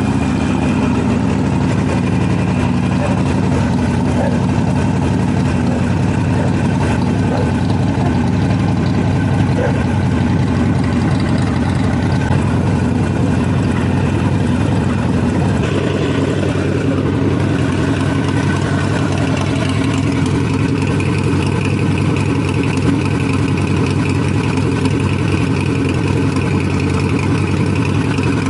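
Harley-Davidson Sportster Forty-Eight's air-cooled V-twin idling steadily just after start-up, its note changing a little about halfway through. The engine is freshly filled with 20W-50 synthetic oil and is running before the oil level is rechecked.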